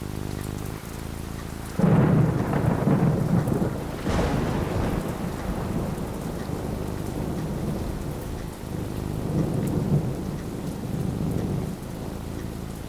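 Thunder over steady rain: a loud rumble breaks in suddenly about two seconds in, a sharp crack follows a couple of seconds later, and the thunder rolls on, swelling once more near ten seconds before dying back to the rain.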